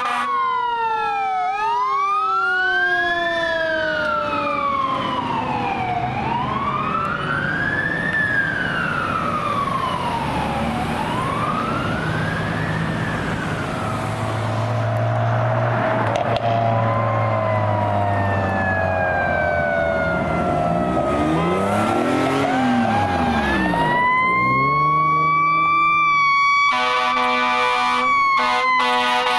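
Fire engine sirens wailing in slow rising and falling sweeps over the truck's engine rumble, the pitch dropping as it passes. Near the end the air horn sounds in short repeated blasts.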